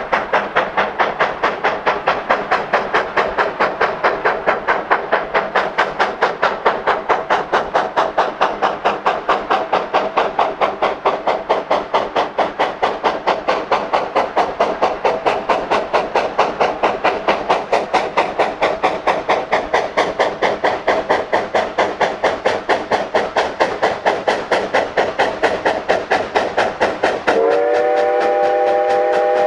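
Narrow-gauge steam locomotive working under steam, its exhaust chuffing in a quick, even rhythm. Near the end a steam chime whistle of several notes sounds, sliding up to pitch and then holding steady.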